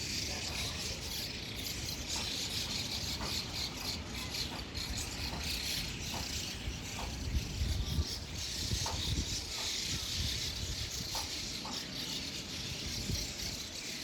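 A large flock of birds crowded in a tree, chattering and chirping together in a dense, continuous twitter, with a low rumble underneath.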